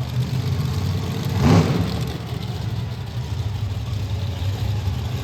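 Monster truck engine running with a low, steady rumble, swelling briefly louder about one and a half seconds in.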